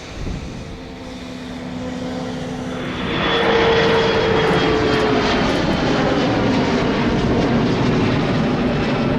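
Jet engines of a departing SkyWest regional jet on its takeoff run. The roar swells sharply about three seconds in and stays loud, with whining tones that slowly fall in pitch as the aircraft passes.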